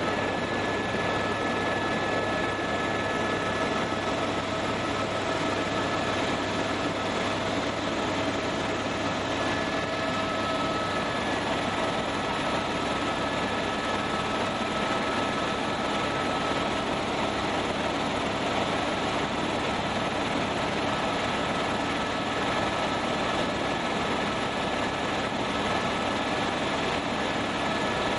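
Helicopter in flight: a steady drone of engine and rotors, an even rushing noise with a few steady whining tones over it.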